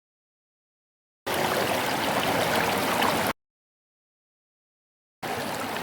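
Flowing water, like a stream, heard in two edited stretches: dead silence for about a second, then about two seconds of steady water that cuts off abruptly, silence again, and the water returning near the end.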